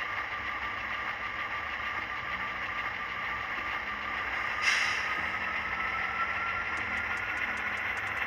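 HO scale RS1 diesel model running forward, its DCC sound decoder playing a steady diesel engine sound through the model's small speaker. A faint whine rises slowly from about halfway. A brief burst of noise comes about halfway through, and light rapid ticks come near the end.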